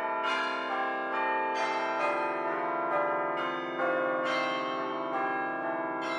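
Bells ringing, a new bell struck about every half second, the tones overlapping and ringing on.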